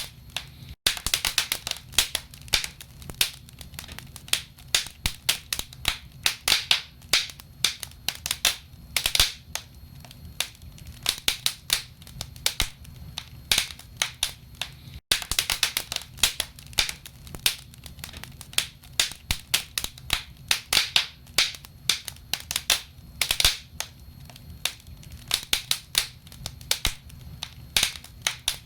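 Burning firewood in a fireplace crackling, with frequent irregular sharp pops and snaps over a steady low rumble of the fire.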